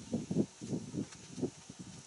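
Soapy wash mitt working over a car's paint in a run of quick, irregular rubbing and squishing strokes.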